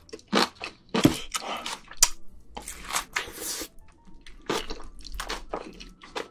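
Close-miked wet chewing and mouth smacking of a person eating with a full mouth, a quick irregular run of sharp sticky clicks with a longer wet stretch about three seconds in.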